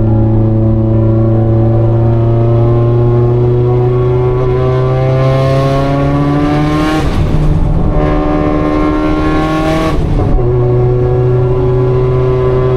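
Car engine pulling under acceleration, its pitch rising slowly, with two breaks that sound like gear changes about seven and ten seconds in, then holding a steady pitch to the end.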